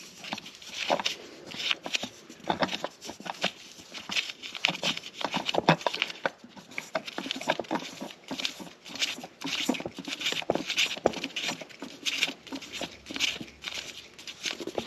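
Irregular clicks, scrapes and rustles of hands working a new oil filter onto its threads by hand under the truck, spinning it on hand snug.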